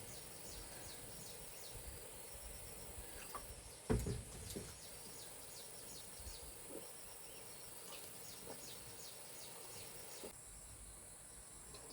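Steady high insect chirring, typical of crickets, with scattered faint ticks and one dull thump about four seconds in.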